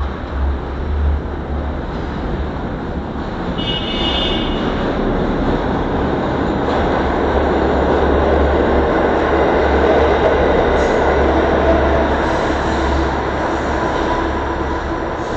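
New York City subway work train running through the station without stopping: a steady rumble of wheels on rail that builds to its loudest midway and eases toward the end. A brief high-pitched tone sounds about four seconds in.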